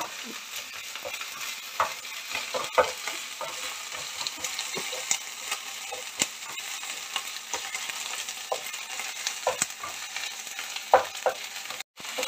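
Sliced onions and ginger-garlic paste frying in hot oil in a metal kadhai, sizzling steadily, while a wooden spatula stirs and scrapes the pan with irregular knocks. The sound drops out for a moment near the end.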